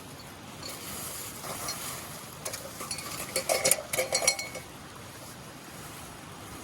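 Camping gear being handled: rustling and clicking, then a cluster of sharp knocks and short ringing metallic clinks about three to four seconds in, over a steady outdoor hiss of wind.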